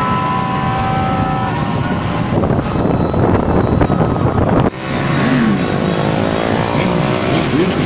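Dense convoy of motorbikes with many engines running and revving. A horn blares for about the first second and a half, and engine pitches rise and fall in the second half.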